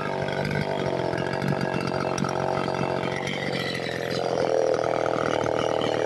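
A small chainsaw running steadily. Its pitch dips slightly a few seconds in and then rises again.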